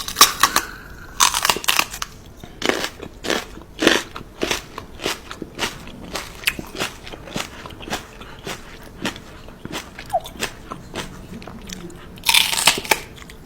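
Crisp, crunchy chewing: something hard being bitten and crunched over and over, roughly one to two crunches a second, with a louder burst of crunching near the end.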